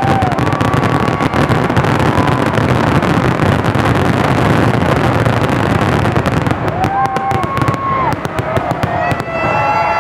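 Dense fireworks barrage: continuous booms and rumbling, turning about two-thirds of the way through into a spray of sharp crackles. A crowd starts to cheer near the end.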